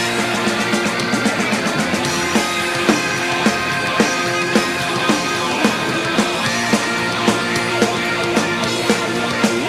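Punk rock band playing an instrumental passage: electric guitars over a drum kit, with a strong beat about twice a second.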